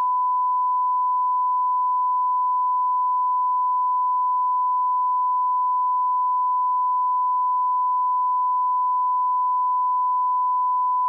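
Audio line-up test tone at the −18 dB reference level: a single pure, steady tone held unbroken without any change in pitch or loudness.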